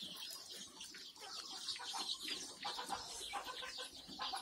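A flock of young Kadaknath and desi chicks cheeping continuously, a dense chorus of many short, high peeps overlapping one another.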